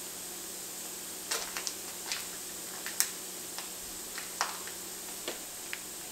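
Minced onion and garlic sizzling gently in butter and olive oil in an enamelled cast-iron pan: a steady soft hiss with irregular sharp pops and crackles, the loudest pop about halfway through.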